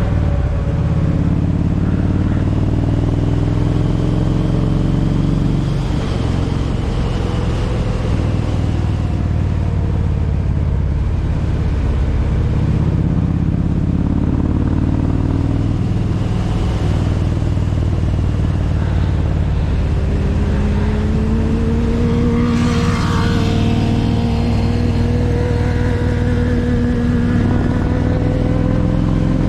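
Kawasaki Vulcan 1700 Voyager's V-twin engine running under way, with a steady rumble of wind and road noise. Its pitch sags in the first few seconds and climbs slowly again in the last third, with a brief higher, noisier swell about two-thirds of the way through.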